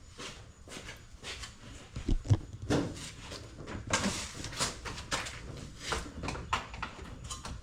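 Irregular knocks, clunks and scraping from materials and tools being handled by hand, with no steady rhythm or running machine.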